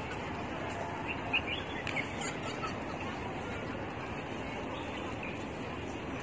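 Steady outdoor city-park background noise, with a few short bird chirps between about one and three seconds in.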